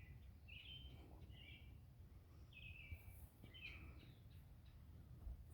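A songbird calling faintly in short chirps, about four of them spaced irregularly, over a low background rumble.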